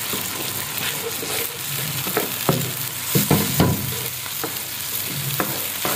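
Beaten eggs and chopped vegetables sizzling in a hot oiled nonstick wok while a wooden spatula stirs them. There is a steady frying hiss, with irregular scrapes and taps of the spatula against the pan.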